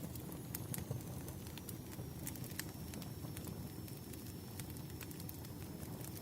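Wood fire burning: irregular sharp crackles and pops from the logs over a steady low rumble of the flames.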